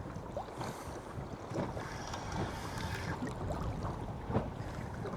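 Wind buffeting the microphone over water lapping against a small boat's hull, with a few light knocks.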